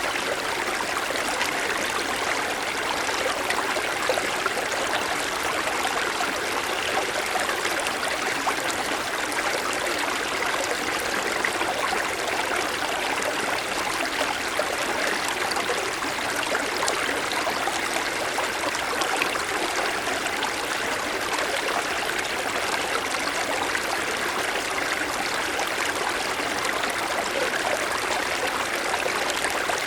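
Small mountain stream flowing over snow-covered stones: a steady rush of babbling and trickling water.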